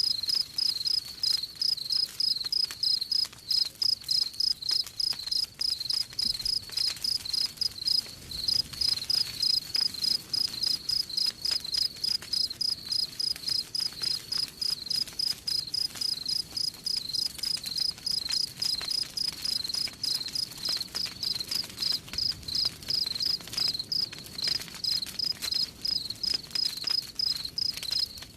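Crickets chirping in a steady, even pulse, about four chirps a second, with faint crackling of a campfire underneath.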